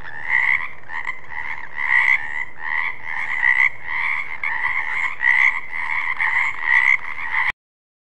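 Frogs croaking in a steady pulsing rhythm, about one to two louder croaks a second over a continuous calling, stopping abruptly near the end.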